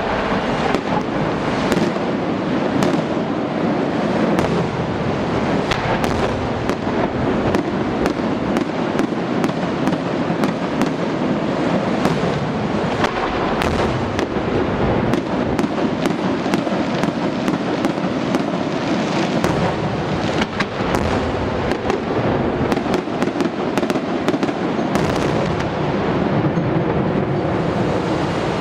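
Fireworks display going off continuously: a dense barrage of bangs and crackling shells, one on top of another.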